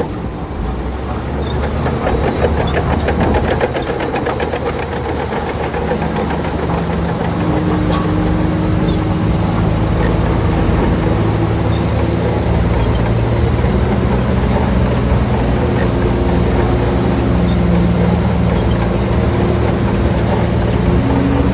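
Heavy diesel engine of earthmoving machinery running steadily, with a rapid clatter in the first few seconds and a slight change in engine pitch about seven seconds in.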